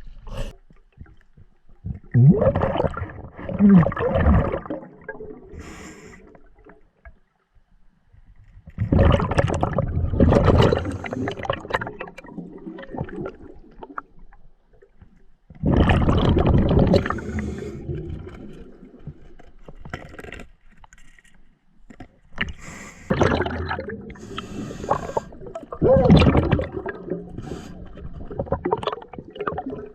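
Diver breathing underwater through a scuba regulator, with exhaled bubbles rushing out in loud bursts every few seconds and quieter stretches in between.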